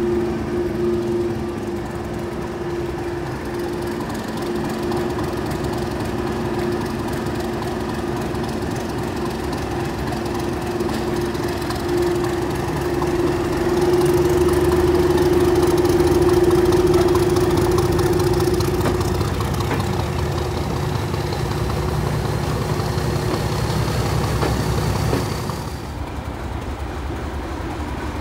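Heritage train running, with a steady engine hum over rail noise. It grows louder about halfway through, a faint rising whine comes in later, and the level drops suddenly near the end.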